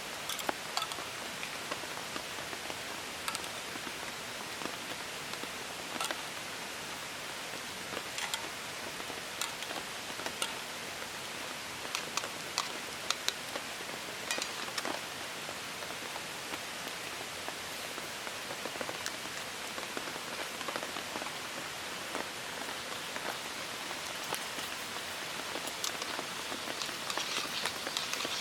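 Steady rain falling, with scattered sharper drops striking close by. A brighter hiss builds near the end.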